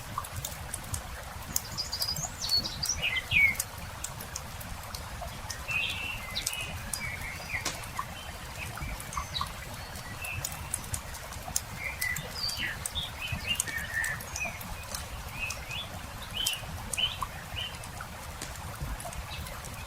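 Small songbirds chirping and trilling in many short calls, over the sharp crackle and popping of a wood campfire, with a steady low rumble underneath.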